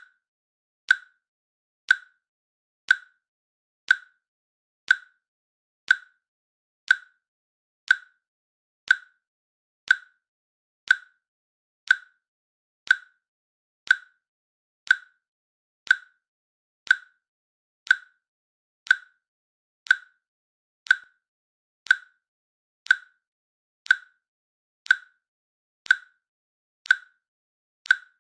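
Countdown timer's click sound, one short sharp click every second, steady and evenly spaced with silence between clicks.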